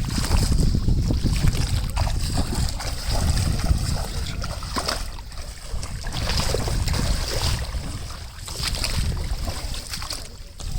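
Wind buffeting the microphone, a steady low rumble that rises and falls, over the wash of open floodwater.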